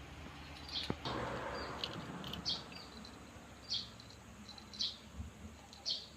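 Small bird chirping repeatedly, short high chirps about once a second. A click and a brief rustle come about a second in.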